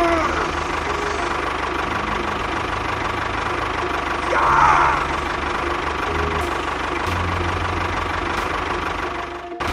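Tractor engine running steadily with a low, knocking chug. It briefly drops out just before the end.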